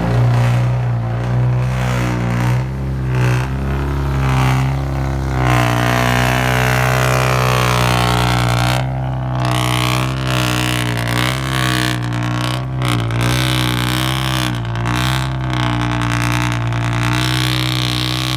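Loud diesel dump truck engine pulling under load as the truck climbs out of the pit, its exhaust note wavering as the revs change. A whine rises and falls about a third of the way in.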